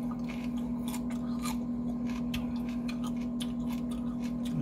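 Crisp crunching clicks of a raw jalapeño being chewed close to the microphone, over a steady low hum.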